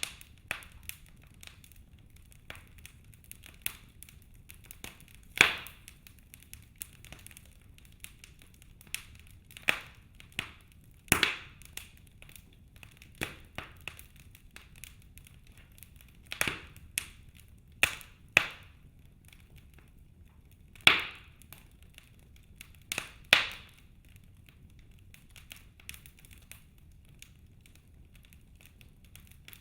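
Wood fire in a fireplace crackling: irregular sharp pops and snaps, a few much louder than the rest, over a faint low rumble.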